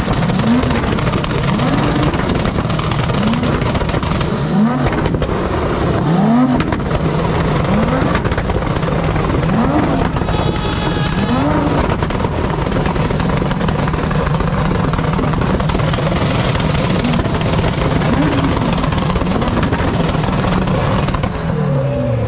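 Vehicle engine revved in quick repeated blips, about one a second, then running on at a steady drone for the last half.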